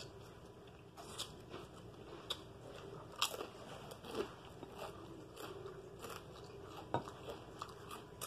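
A person chewing crunchy food with irregular crisp crunches and clicks of the mouth, the sharpest a little past three seconds and again near seven seconds.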